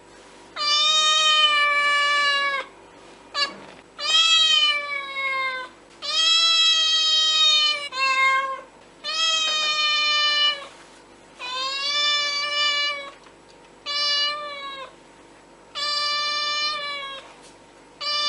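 A cat meowing over and over in long, level-pitched calls of one to two seconds each, with short gaps between them.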